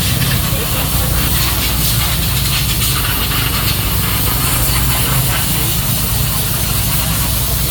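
Steady low engine rumble under a loud hiss, holding an even pitch without revving.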